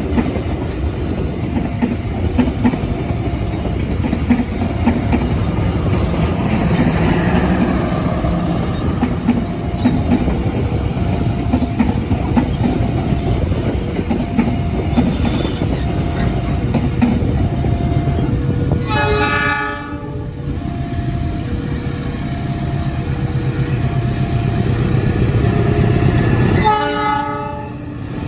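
A train passing close by, its wheels clattering over the rail joints, with the locomotive's horn sounding in two short blasts, one about two-thirds of the way through and one near the end.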